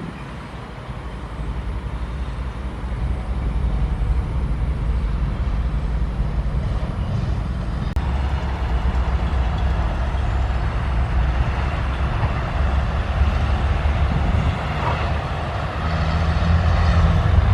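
Diesel engine of a SANY SY135F excavator running steadily while it works, growing louder near the end.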